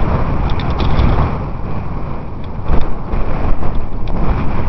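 Wind rushing and buffeting over the microphone of a camera on a moving road bicycle: a loud, uneven low rumble of wind noise.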